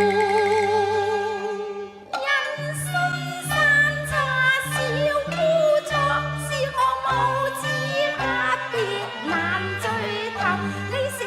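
Cantonese opera music: a held note with vibrato for about two seconds, then a quick ornamented melody full of sliding notes over a steady bass line.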